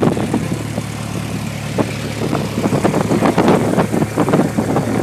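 Cessna 172P's four-cylinder Lycoming O-320 engine and propeller running steadily at low power, with irregular crackles over it.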